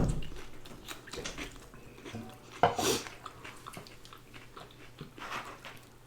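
Close-up eating sounds: chewing and biting with small mouth clicks, a thud at the start and a short crisp burst about three seconds in.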